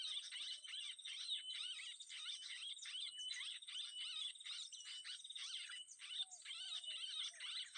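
Dense chorus of small birds chirping and twittering without a break, over a steady high insect drone. A few short, lower falling calls come in during the second half.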